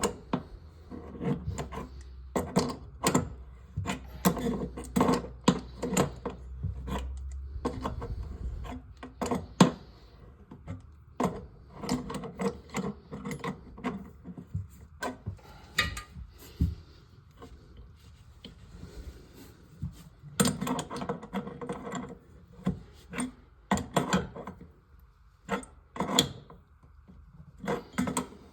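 Irregular clicks, knocks and rubbing of hard parts being handled, with a low rumble underneath for the first eight seconds or so.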